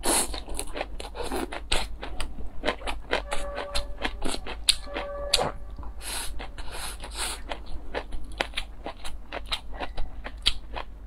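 Dense run of small clicks and scrapes of utensils working against dishes of food, with two brief ringing clinks about three and a half and five seconds in.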